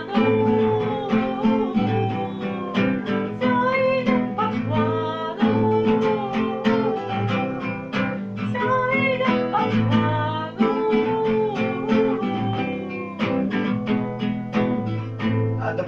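A woman singing a song with strummed acoustic guitar accompaniment, the guitar keeping a steady strumming rhythm under the melody.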